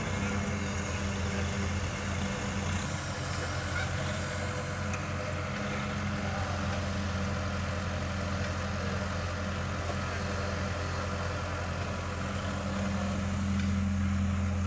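Tractor engine running steadily with a low, even hum, growing a little louder near the end.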